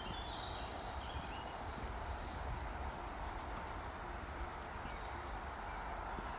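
Woodland ambience: a steady wash of background noise with a low rumble underneath, and a few faint bird chirps.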